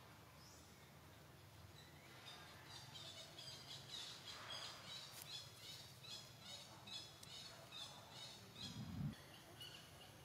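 Faint outdoor background with a small bird chirping over and over, short high notes at about two or three a second. A brief low thump about nine seconds in.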